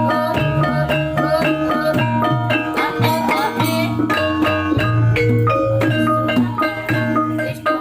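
Javanese gamelan music for a kuda lumping dance: struck metallophones play quick, ringing notes over drumming and a low sustained tone.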